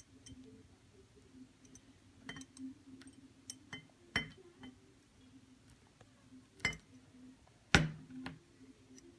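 Scattered light clinks and taps of glassware, half a dozen or so, the loudest a knock about three-quarters of the way through, over a faint steady hum.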